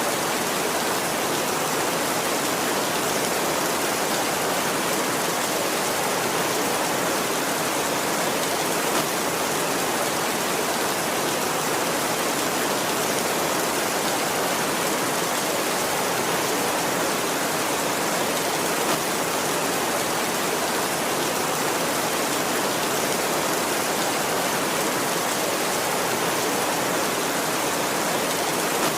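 Heavy rain falling on a tin roof, a steady dense hiss without any thunder.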